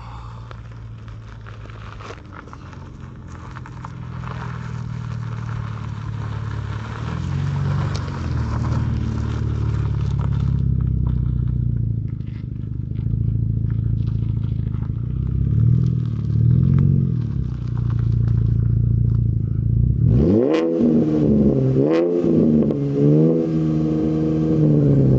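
A car engine running steadily and growing gradually louder, then from about 20 seconds in revved hard several times in quick succession, the pitch sweeping up and falling back with each blip.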